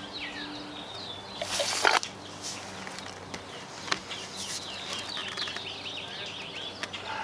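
Small birds chirping busily, with many quick falling chirps. About one and a half seconds in there is a brief loud rustle or scrape, and a few sharp clicks follow later, from handling work nearby.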